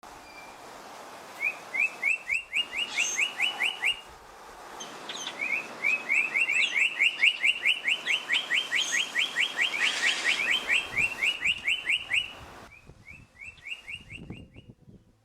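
A bird singing three long runs of quick, rising chirps, several a second, with short pauses between runs; the longest run is in the middle and the last is fainter.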